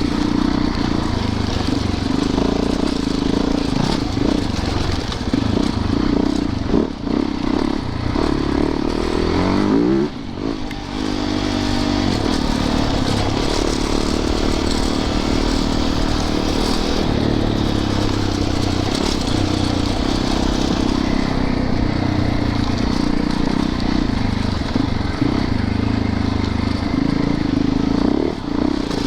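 Dirt bike engine running under load on a sandy trail, its pitch rising and falling with the throttle; about ten seconds in it drops off briefly and then climbs again. Wind rush and rattling from the bike run underneath.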